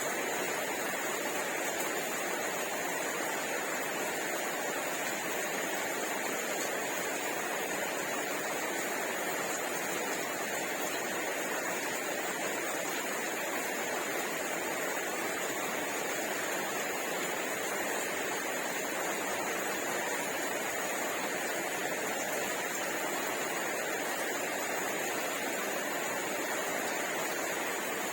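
Steady, even hiss that does not change, with no distinct clicks or bites standing out.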